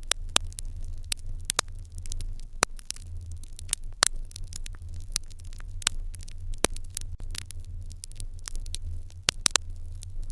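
Fire crackling in an irori hearth, with frequent irregular sharp pops and snaps over a low steady rumble.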